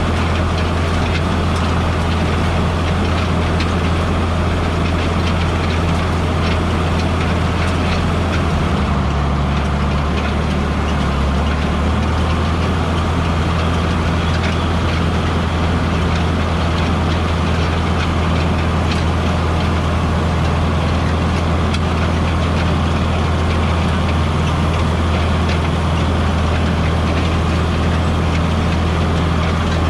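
A heavy vehicle engine running steadily, its pitch shifting slightly about nine to eleven seconds in.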